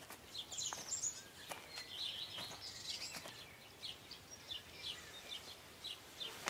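Small birds chirping in many short, high calls, with a few faint clicks among them.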